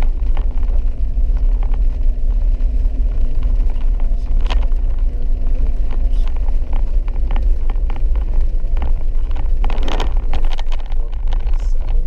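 Vehicle driving on a rough, wet dirt trail: a steady heavy rumble from the engine and tyres, with a drone for the first half. Scattered knocks and rattles run through it, and a brief louder rush comes about ten seconds in.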